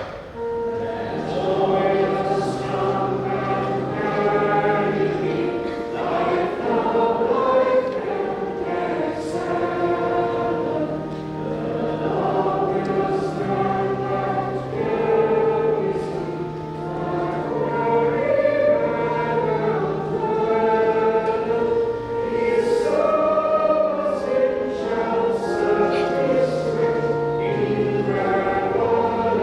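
Congregation and choir singing a hymn, with steady held accompaniment notes beneath the voices.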